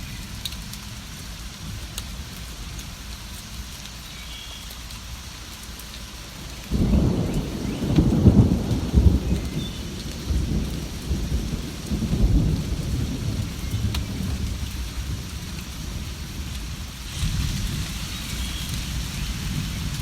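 Steady rain with a roll of thunder that breaks in suddenly about a third of the way in. The thunder is loudest a couple of seconds later, then rumbles on in several weaker waves.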